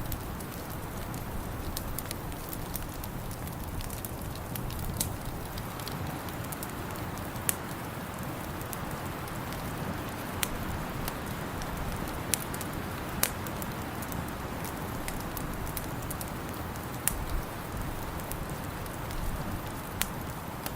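Wood fire crackling in a fireplace: irregular sharp pops and snaps over a steady low rushing noise.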